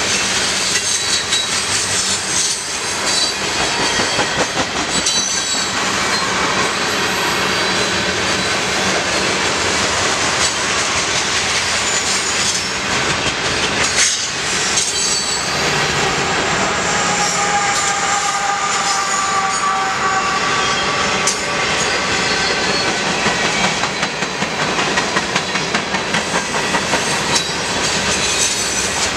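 Freight train of tank cars and covered hoppers rolling past at speed: a steady rumble and clatter of steel wheels on rail. One sharp clank comes about halfway through, and the wheels squeal for several seconds after it. The clickety-clack of the wheels over rail joints turns plainly rhythmic near the end.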